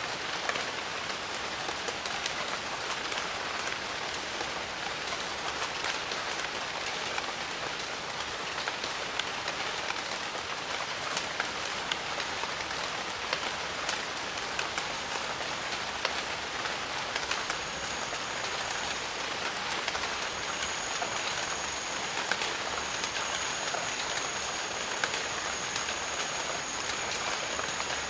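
Steady rain in a jungle, an even hiss dotted with many sharp individual drop taps. A thin steady high-pitched tone comes in a little past halfway.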